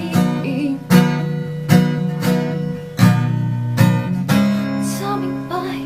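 Acoustic guitar strummed in chords, with a firm stroke roughly every second and the chords ringing on between strokes, as an instrumental bridge between sung lines.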